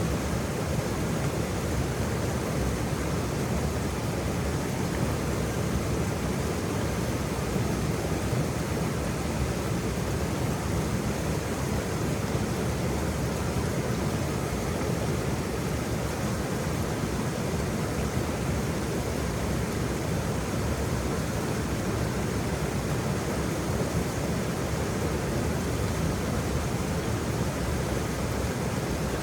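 Waterfall: water falling and splashing in a steady, even rush, with its weight in the low end.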